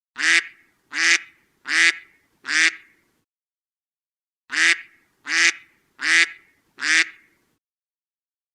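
Duck quacking: two runs of four short quacks, evenly spaced, with a pause of about a second and a half between the runs.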